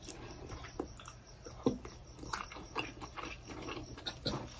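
Faint close-up eating sounds: chewing on a mouthful of sticky rice and dip, with scattered small wet mouth clicks, the sharpest about a second and a half in.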